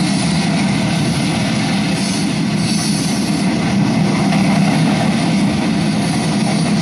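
Freight train cars (covered hoppers and gondolas) rolling past on the rails, a steady, loud noise of wheels on track, heard from a trackside camera feed played over a speaker.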